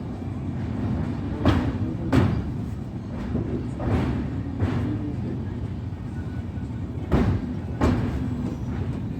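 Passing train: a steady rumble with wheels clacking over a rail joint, two clacks close together about every three seconds as each coach's bogies cross it.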